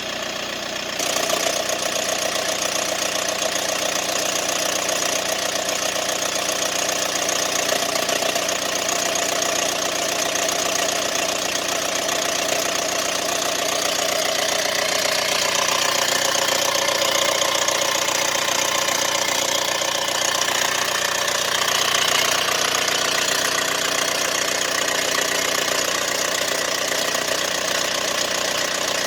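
Mercedes-Benz B180 (W245) engine running with a rattling noise of unknown cause. The sound grows louder about a second in and then holds steady.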